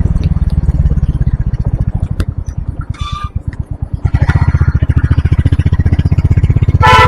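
Motorcycle engine running under way, its rapid firing pulses easing off about two seconds in and pulling strongly again about four seconds in. A short horn honk sounds near the end.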